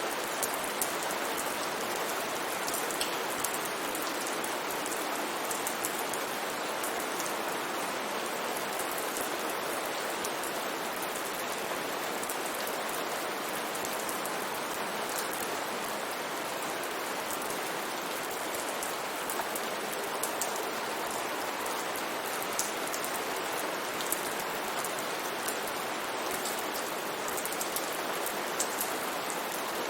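Steady rain falling, an even hiss with many small sharp drop ticks scattered throughout.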